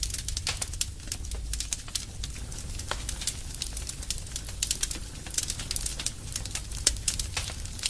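Small fire of twigs and pruned branches crackling, with many irregular sharp pops and snaps over a steady low rumble.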